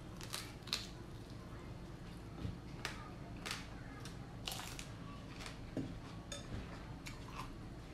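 Close-up eating sounds: crisp-fried field rat meat and raw cucumber being bitten and chewed, making a run of sharp, irregular crunches and clicks.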